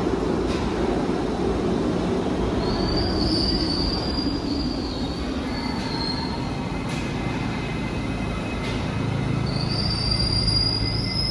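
New York City subway train running through a station over a steady rumble, its steel wheels squealing high on the rails. The squeal comes about three seconds in and lasts about three seconds, then returns near the end.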